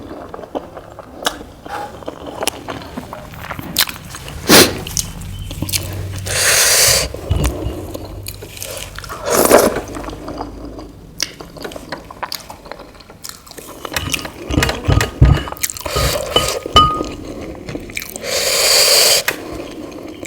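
Close-up eating sounds of a person chewing soft idli with sambar: wet mouth noises and scattered clicks, with a few longer noisy rushes of about a second each.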